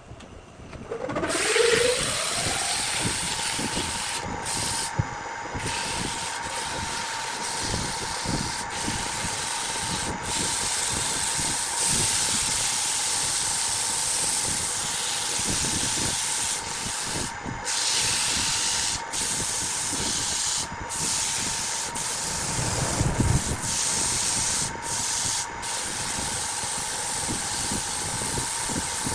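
Wood lathe spinning up, its motor whine rising over the first couple of seconds and then holding steady. Under it, a constant hissing rub of abrasive on the spinning jackfruit wood, which breaks off briefly now and then.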